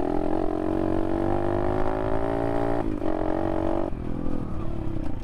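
Apollo RFZ 125cc pit bike's single-cylinder four-stroke engine held at steady revs under throttle while riding. Its pitch breaks briefly about three seconds in, then drops to lower, wavering revs near the end.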